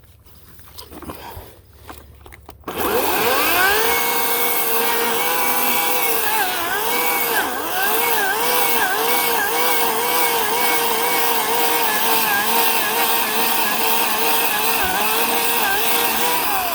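Ryobi 18-inch battery electric chainsaw starting up about two and a half seconds in and cutting birch. It makes a steady motor whine whose pitch dips and recovers again and again as the chain bites into the wood under a rocking motion. It winds down at the very end.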